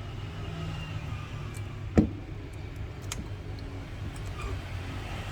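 A razor blade working at the seam of an iPhone 11 Pro Max's display to pry it open, giving one sharp click about two seconds in and a few fainter ticks, over a steady low background hum.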